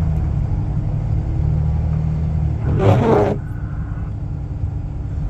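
A vehicle's engine and road rumble heard from inside the cab while driving on a snowy road, steady and low. About three seconds in, a brief rushing noise lasting about half a second.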